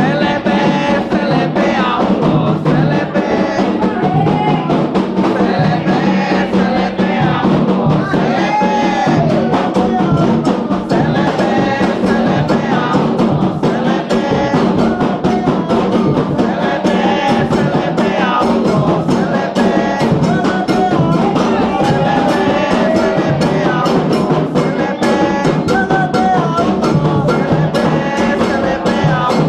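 Candomblé ceremonial music: atabaque hand drums playing a dense rhythm under group singing.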